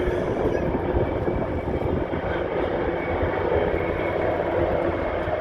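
Helicopters flying over in a flypast: a loud, steady noise of rotors and engines.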